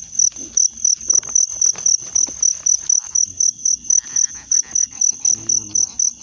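A cricket chirping in steady, evenly spaced high-pitched pulses, about five a second, with faint scattered clicks and knocks underneath.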